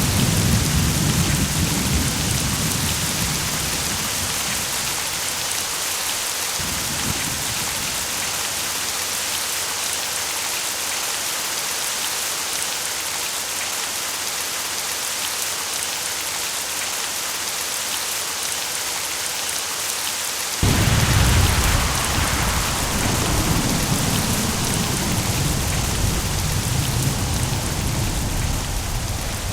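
Steady heavy rain hissing, with thunder rumbling at the start and fading away. About two-thirds of the way through, a sudden loud thunderclap breaks in and rolls on as a long rumble.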